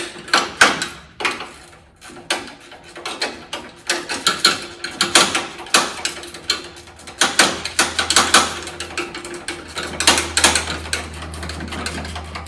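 Ratchet wrench clicking in quick runs of back-and-forth strokes, with a low steady hum underneath from about halfway.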